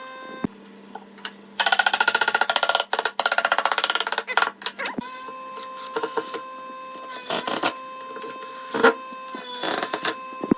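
Power tool working wood: a loud run of fast, even strokes lasting about three seconds, then shorter bursts and a few knocks, over a steady hum.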